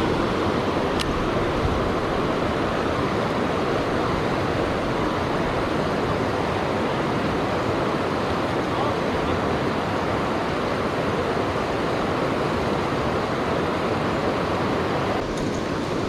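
Steady rush of river water running over rocks, a loud even noise with no change.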